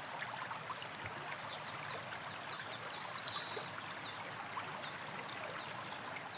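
Water running in a stream, a steady rushing, with a bird's short high trill about three seconds in and again near the end.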